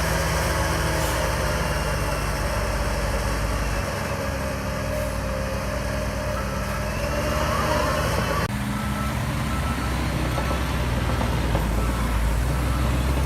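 Shantui DH17C3 bulldozer's diesel engine running steadily under load. After an abrupt change about two-thirds in, a repeating reversing beep joins the engine.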